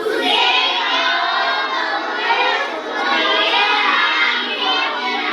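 A class of schoolchildren chanting a sentence together in a loud chorus, many voices overlapping: the Hindi translation of the teacher's English line.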